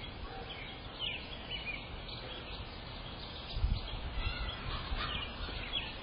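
Outdoor ambience of birds chirping: scattered short calls, heard through a Blink outdoor camera's microphone, with a few low rumbles of wind on the microphone, the strongest about halfway through.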